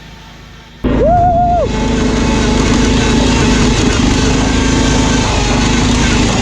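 Riding lawn mower engines running hard, cutting in abruptly about a second in, with a short rising-and-falling yell from a person over them.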